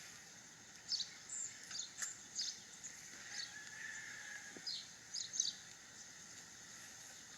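Birds chirping in short, high calls, about eight of them in the first five seconds or so, over faint steady background noise.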